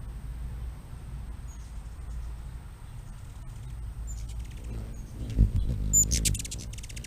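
Short high animal chirps, then a burst of rapid, closely repeated chattering calls for about a second near the end, over a steady low rumble, with one thump just before the burst.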